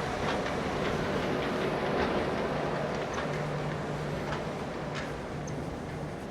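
A vehicle running past with a steady rumble and low hum, with a few faint ticks over it.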